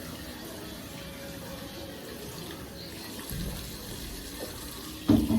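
Water running steadily from a kitchen tap, with a brief louder sound near the end.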